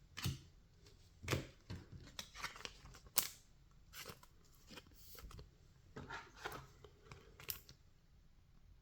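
Baseball trading cards being slid and flipped over one another in the hand: a faint, irregular series of short papery swishes and snaps, about a dozen of them.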